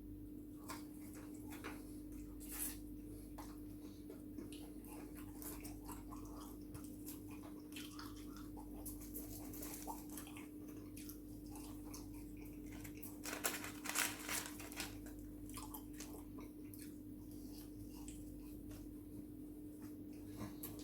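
Close-miked chewing and biting of a person eating, with a cluster of louder crunchy bites about two-thirds of the way through, over a steady low hum.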